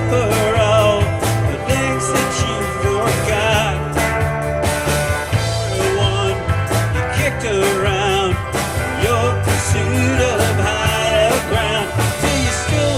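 Live rock band playing a song: bass and drums under guitars and keyboards, with a lead melody that bends and wavers in pitch on top.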